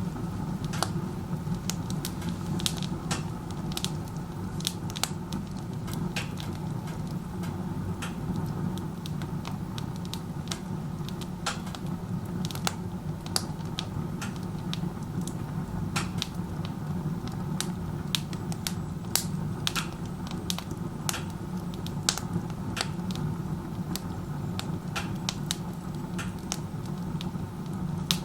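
Wood fire crackling and popping in a wood stove run with its door open like a fireplace, with irregular sharp snaps over a steady low roar of the chimney draft. The strong draw pulls air hard through the open door, a sign of poor burning efficiency.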